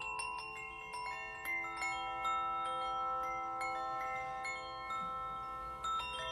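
A glucophone (steel tongue drum) played with a new note struck every half second or so. Each note rings on long, overlapping the next.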